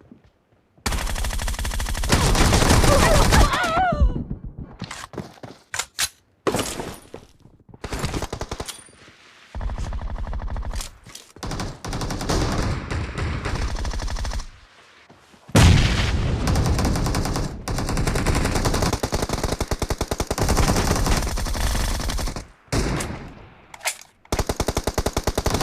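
Video-game automatic gunfire: several bursts of rapid fire broken by short pauses. The longest bursts, a few seconds in and from about the middle onward, run for several seconds at a time.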